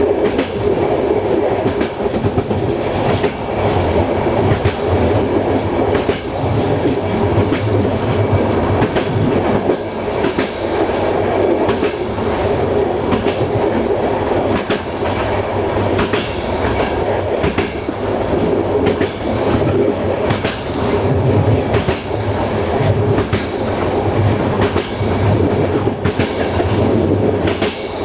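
Passenger train coach running along the track: a steady rolling noise of wheels on rails, with repeated clicks as the wheels pass over rail joints.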